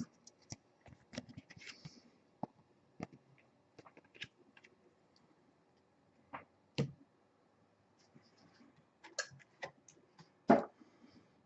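Faint, scattered clicks and taps of trading cards being handled and set down, with a couple of slightly louder knocks.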